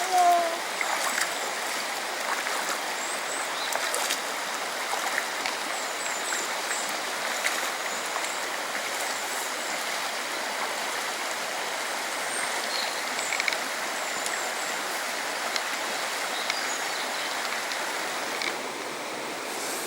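Steady rush of fast-flowing water in a mountain stream.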